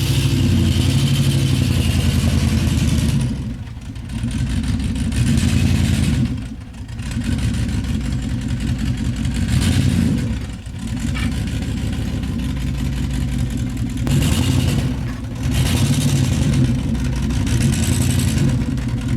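Vehicle engine running under load, the throttle easing off briefly several times and picking up again.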